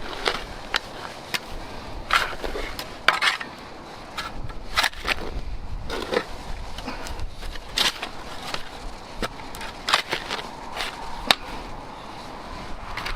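Irregular scraping, clicking and crackling of hands-on outdoor work, with sharp clicks at uneven intervals of about a second.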